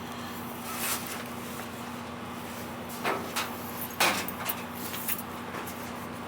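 A few short knocks and clatters, loudest between about three and five seconds in, over a steady hum.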